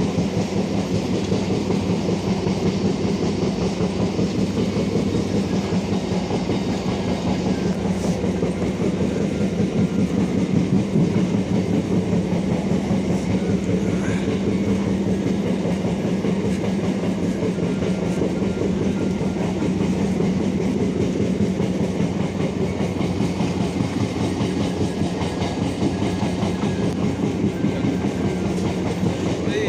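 Moving train's wheels running on the rails: a steady rumble with clatter from the track.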